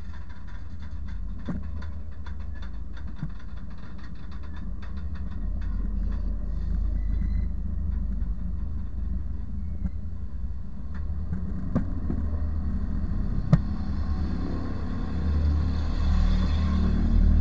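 Freight train cars rolling over the rails directly above, heard from between the rails: a steady low rumble with many sharp wheel clicks. One loud knock comes about thirteen seconds in, and the rumble grows louder near the end.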